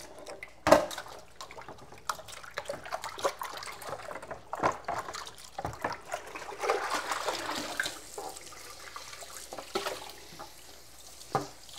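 Water running and splashing as refrigerator parts are washed, with scattered knocks and clatter; the loudest knock comes about a second in.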